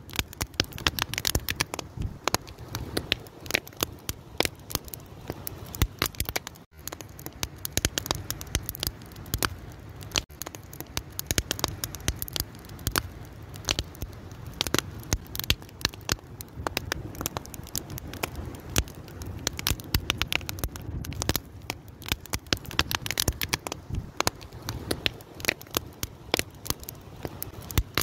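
Wood fire crackling steadily: dense, irregular pops and snaps over a low rumble of the burning logs.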